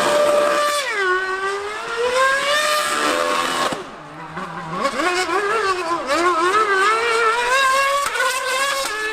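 High-revving racing engine running hard, its pitch dropping and climbing again and again through gear changes. There is a brief lull about four seconds in, then the engine winds up steeply again.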